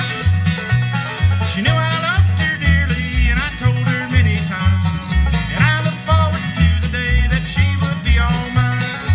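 Bluegrass band playing an instrumental break: banjo picking over guitar, with the bass holding a steady beat.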